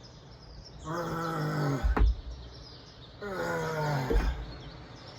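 A person imitating a bear's roar: two growling calls, each about a second long and falling in pitch, the first about a second in and the second near the middle. Each call ends with a low thump.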